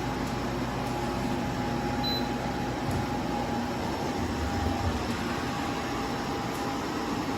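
Joy Pebble 2.0 kW portable spot cooler running: a steady hum and whoosh with a thin constant tone over it.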